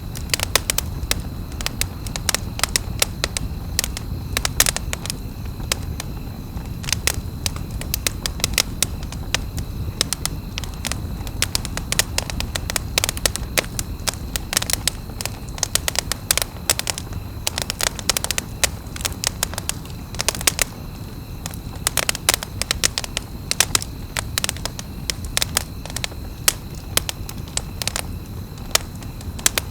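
Wood campfire crackling and popping continuously, many sharp irregular snaps over a low, steady rush of the flames.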